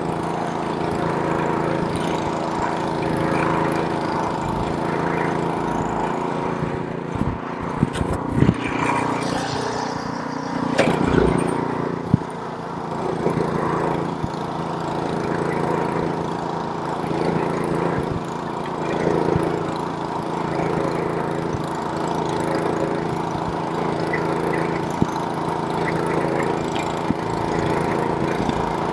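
Snowblower's small gasoline engine running steadily under load while throwing snow, with a few sharp knocks about a third of the way in.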